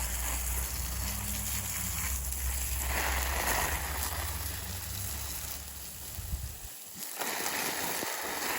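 Water splashing and pouring from a hose or watering can onto garden plants, a steady hiss, over a low hum that cuts off suddenly about two-thirds of the way through.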